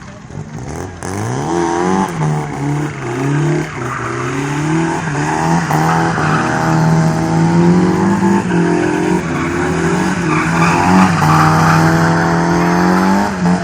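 A small car's engine revving, its pitch rising and falling several times.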